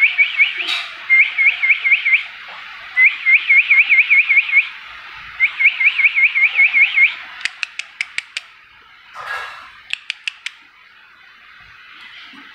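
Pet rose-ringed parakeet calling in four quick trains of rapid, evenly repeated chirps, about six notes a second, through the first seven seconds. A run of sharp clicks follows, then a shorter run about ten seconds in.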